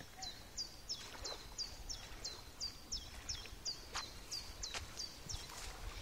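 A songbird singing a fast run of repeated high notes, each sliding down and then holding briefly, about three a second, stopping about five seconds in. A few faint clicks and a low outdoor rumble under it.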